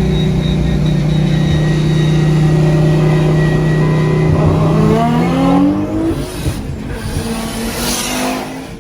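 Car engine running at a steady pitch, then revving up with a rising pitch about halfway through, followed by a rush of passing-car noise near the end.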